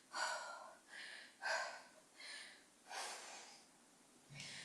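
A woman breathing hard in short, sharp breaths, about six in a row, from the exertion of holding and pulsing in deep squats.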